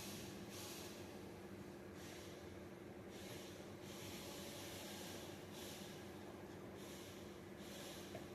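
A person breathing heavily after exertion, a run of breaths about once a second or two, over a faint steady hum.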